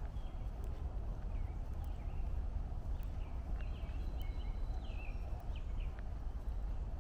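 Footsteps of someone walking a trail over a steady low rumble, with birds chirping here and there and a short held whistled note in the middle.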